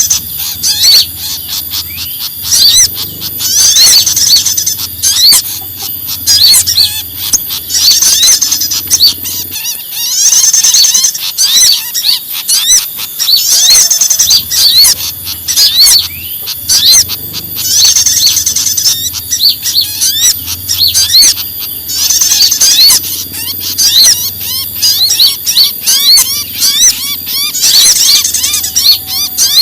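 Bird-lure recording of small songbirds giving agitated, excited alarm calls: a dense mix of high, rapid chirps and trills. A burst of shrill calls comes back about every two to three seconds.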